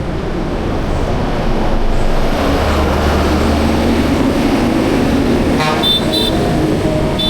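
Street traffic with a vehicle passing close by, its low rumble swelling and fading over a few seconds. Near the end come two short high-pitched beeps, like a horn tooting.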